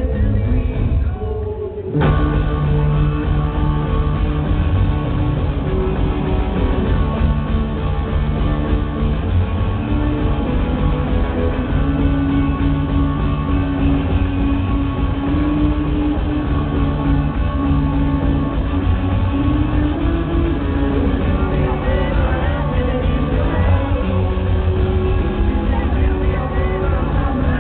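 Rock band playing live and loud. After a short thinner moment, the full band comes in abruptly about two seconds in and keeps going at full volume.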